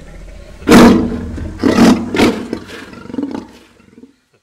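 Male lion roaring: one loud, long call about a second in, followed by a run of shorter grunting calls about half a second apart that get weaker and fade away.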